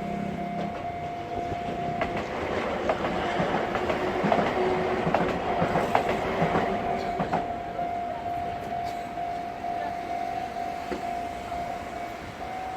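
Enoshima Electric Railway (Enoden) train passing close by, its wheels clattering over the rail joints; the clatter is loudest a few seconds in and then fades as the train moves on. A steady high tone sounds underneath.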